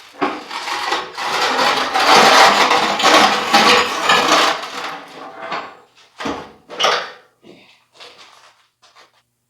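Metal parts and tools being handled: a long rattling scrape for about five seconds, then a few separate knocks that thin out.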